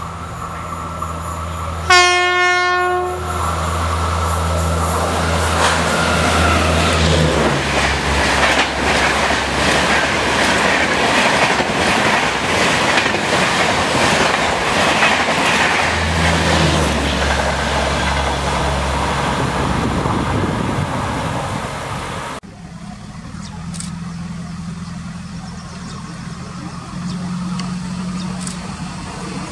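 An electric locomotive sounds one short horn blast about two seconds in, then an express with double-decker coaches passes at speed: a loud, long rush of wheels with fast rail-joint clatter. After a sudden cut near the end, a quieter, steady rumble of another train approaching.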